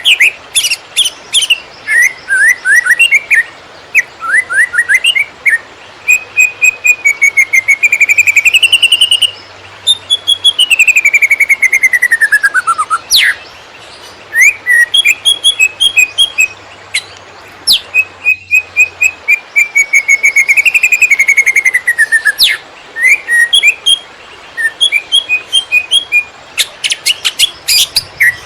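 Cucak ijo (greater green leafbird) singing a loud, non-stop 'konslet' song. Rapid chirps and trills run together with long sliding whistles, one falling steadily for about three seconds midway through.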